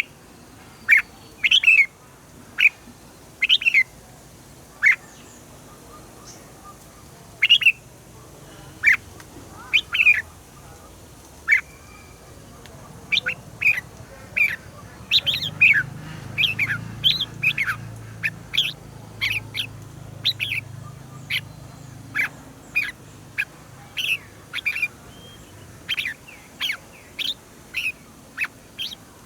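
Red-whiskered bulbul singing in short, sharp notes. The notes are scattered at first and come in quick succession from about halfway through.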